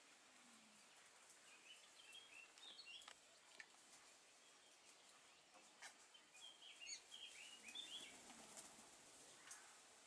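Faint bird chirps in two short bursts of quick, high chirps a few seconds apart, with a few soft clicks in between.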